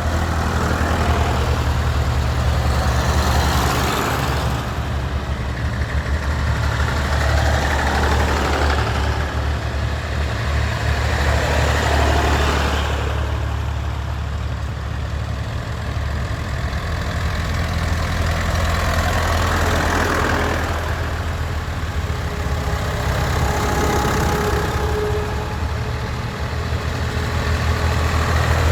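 Tractor engines running steadily, with a louder swell every few seconds as tractors go by one after another.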